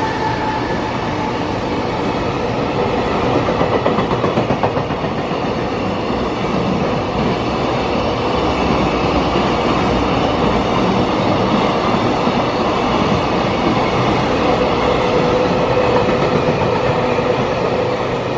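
Freight train hauled by an EF210 electric locomotive running through the station without stopping, its wagons rolling past in a steady loud rush. A stretch of rhythmic wheel clatter over rail joints comes a few seconds in, and a steady tone sounds through the later part.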